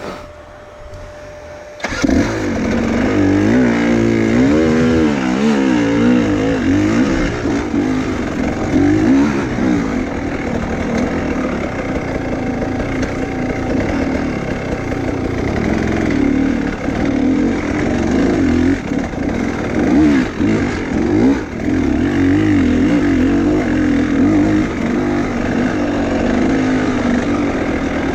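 Enduro motorcycle engine starts about two seconds in, then runs with the throttle repeatedly revved up and down.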